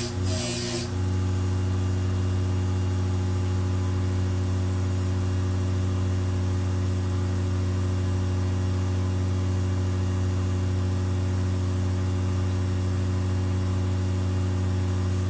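Electric motor of a knife-polishing wheel running steadily with an even hum. Two short hisses in the first second, as the blade is worked against the wheel.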